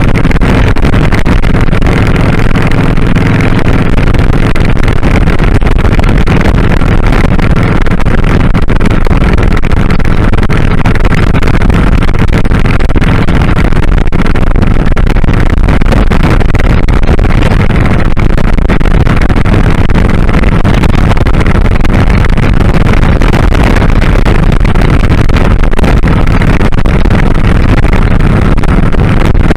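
2001 Kawasaki Drifter 1500's V-twin engine running steadily while riding, under loud, constant wind noise on the glasses-mounted microphone.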